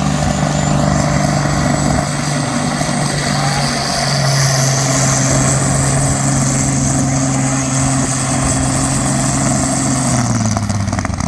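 Competition pulling vehicle's engine running loud and steady at high revs under load during a pull, with a high whine over it. The engine note steps down slightly about four seconds in and drops again near the end as the revs come off.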